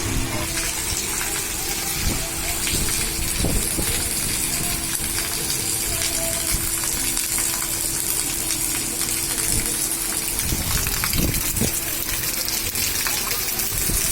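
Heavy rain pouring down steadily, a dense even rush of water. A faint steady hum runs underneath and stops about ten seconds in.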